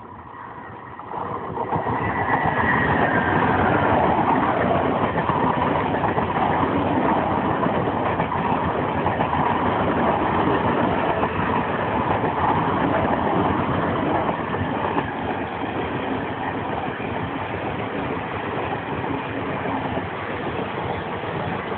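A train passing close by: a steady rush of wheel-on-rail noise that builds about a second in, holds loud, and eases a little in the second half.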